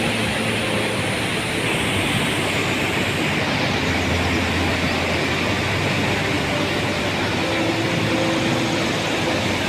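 Steady rushing of water, a loud, even roar with no break.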